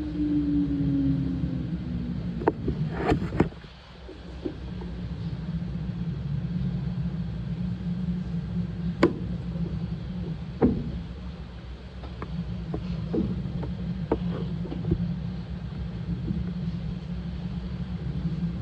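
Washing machine running a wash cycle: a steady motor hum whose pitch falls as the drum slows at the start and rises again near the end as it turns back up, with scattered clicks and knocks from the drum and load.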